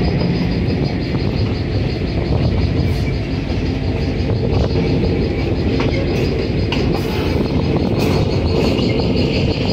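Steady rumble of a passenger train ride heard from aboard a moving car, with wheels on the rails and a few faint clicks, behind an EMD GP7 diesel locomotive pulling the train.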